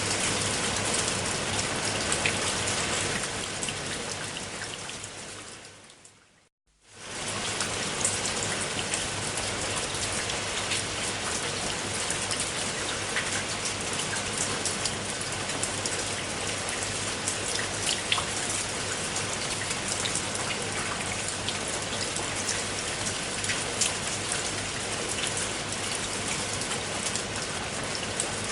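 Steady rain falling, with scattered drops ticking. About five seconds in it fades out to a moment of silence, then comes back in and runs on evenly.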